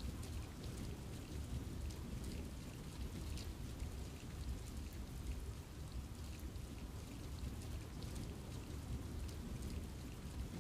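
Steady rain falling in a forest, with many separate drops ticking on leaves over a deep, low rumble.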